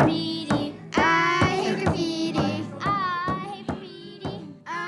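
Audio collage of children's voices, clipped into short sung and spoken fragments, over sustained synthesizer tones and a regular percussive tick about twice a second.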